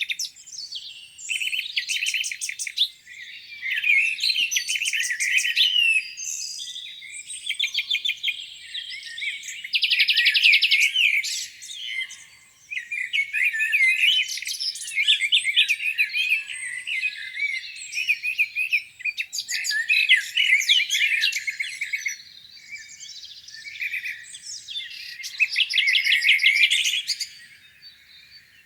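A dawn chorus of several songbirds singing at once: overlapping chirps, whistled glides and fast trills, coming in bursts with brief lulls between them.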